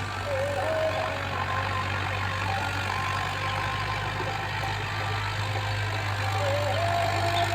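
Tractor diesel engine running steadily with a deep, even hum, and faint wavering higher tones over it at times.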